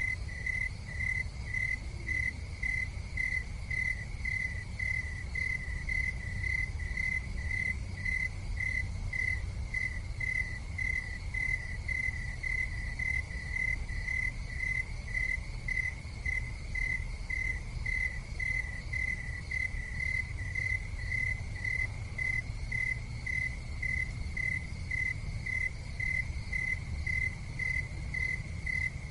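A cricket chirping steadily in an even, unbroken rhythm, about two high chirps a second, over a constant low rumble.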